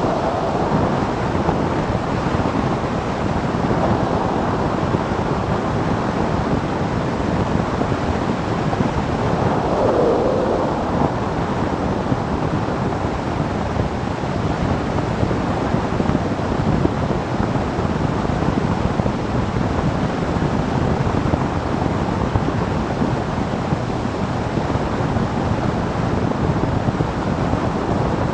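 Steady wind roar over the microphone of a motorcycle riding at road speed.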